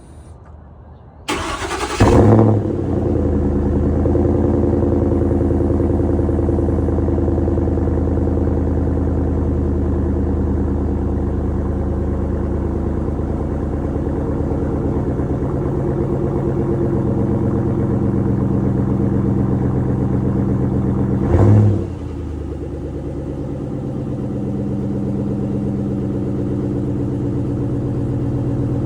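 A 2010 Ford F-150's 4.6-litre three-valve V8, breathing through a Flowmaster Outlaw muffler, cold-starts after a brief crank and settles into a steady fast idle. About two-thirds of the way through it gives one short loud burst of revs, then runs on at a lower idle.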